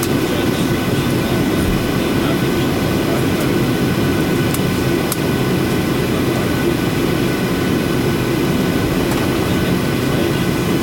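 Steady engine and airflow noise of a Boeing 737-800 with its CFM56 turbofans running: an even rumble with several faint steady whine tones over it.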